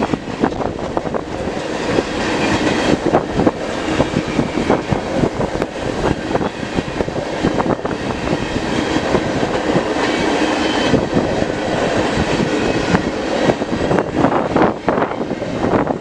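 Freight cars of a manifest train rolling past, wheels clicking steadily over the rail joints, with wind buffeting the microphone.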